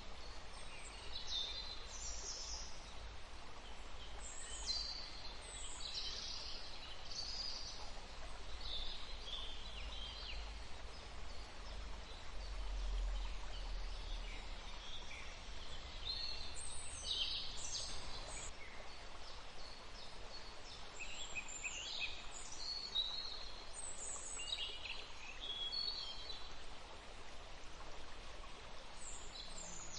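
Songbirds chirping and singing in quick, short phrases, several birds overlapping, over a steady faint outdoor hiss and a low rumble.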